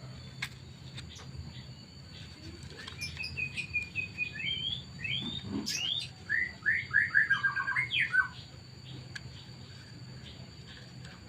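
A bird singing: a string of short chirps, then a faster volley of short, falling notes that ends about eight seconds in.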